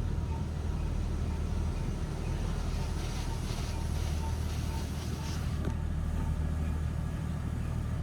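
Water Wizard 2.0 touchless car wash applying clear coat protectant, heard from inside the car's cabin: a steady low hum under a hiss of spray against the car, which grows stronger and streakier about three seconds in and eases off a couple of seconds later.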